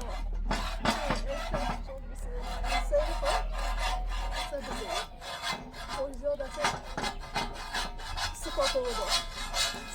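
Repeated irregular scraping strokes, with a low steady hum underneath that stops about four and a half seconds in.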